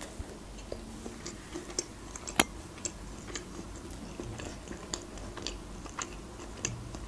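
Close-miked chewing of a soft cream-layered cake: small wet mouth clicks and smacks scattered throughout, with one sharper click about two and a half seconds in.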